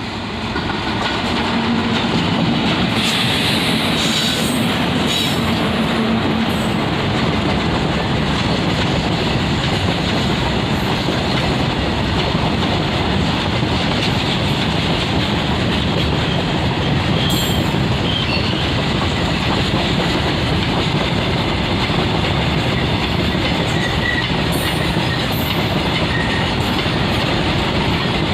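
A long goods train of freight wagons hauled by twin WAG-7 electric locomotives passes at speed without stopping. The steady rumble and clatter of the wheels over the rail joints goes on throughout, with a few brief high squeals from the wheels.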